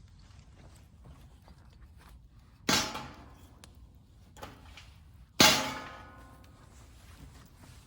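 Two metallic clangs about two and a half seconds apart, each ringing out briefly, as something strikes the stainless steel Solo Stove Bonfire fire pit; the second is louder.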